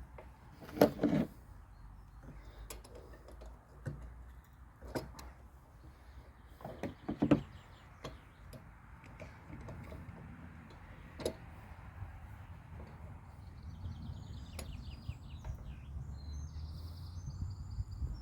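Scattered clunks and knocks of parts and tools being handled while working on a Mountfield lawnmower, the loudest about a second in and again about seven seconds in. Birds chirp over the last few seconds.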